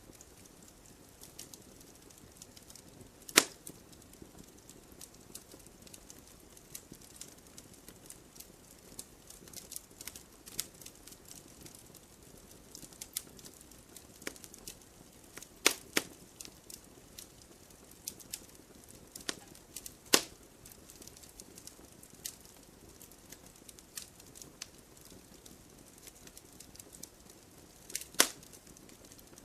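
Wood fire in a fireplace crackling: a soft steady hiss under frequent small snaps, with a few sharp loud pops, about four across the stretch.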